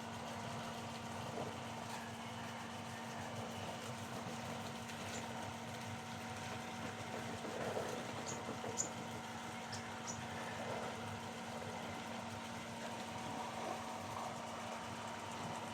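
A steady mechanical hum with a hiss under it, and a few faint ticks about halfway through.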